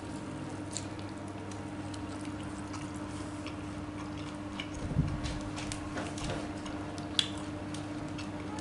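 Close-up mouth sounds of a person eating spicy tofu: soft, wet chewing with scattered small clicks and smacks, over a steady low hum.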